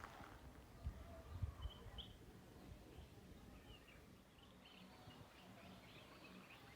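Faint birds chirping over a very quiet background, with a few low thumps about a second in.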